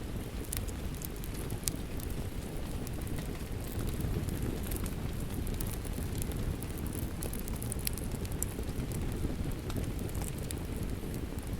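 Steady rain mixed with a crackling wood fire: a continuous low rushing with scattered sharp pops and clicks, several a second at irregular intervals.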